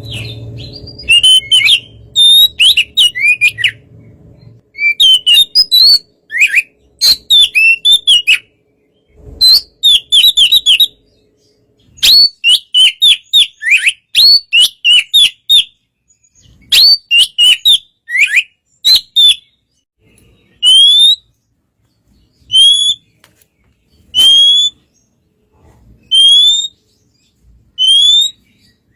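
Oriental magpie-robin singing loud, clear whistled phrases mixed with quick chirps. From about two-thirds of the way through it switches to single upslurred whistles repeated every second and a half or so.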